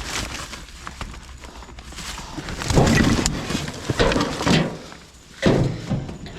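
Heavy clunks and clattering of scrap being shifted and pulled in a dumpster. There are three louder bursts in the second half, over smaller knocks.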